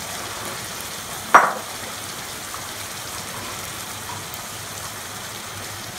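Chicken pieces in masala and a little water sizzling steadily in a nonstick pan. A single sharp knock with a brief ring comes about a second in.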